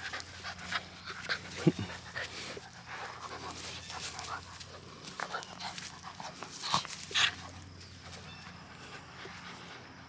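Mini Australian Shepherd panting in quick breaths, with a couple of louder sharp sounds about two seconds in and around seven seconds; the panting fades over the last couple of seconds.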